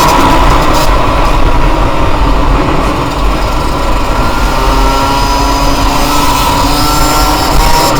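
Yamaha YZ125 two-stroke single-cylinder dirt bike engine running as it is ridden, its pitch rising and falling with the throttle, over heavy wind rumble on the bike-mounted microphone.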